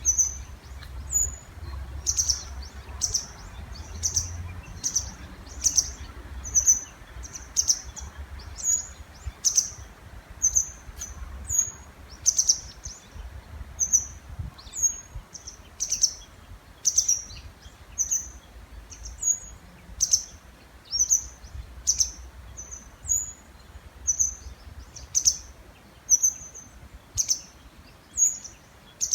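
Small birds calling to each other over and over with short, sharp, high chirps, about two a second, over the faint rush of a river.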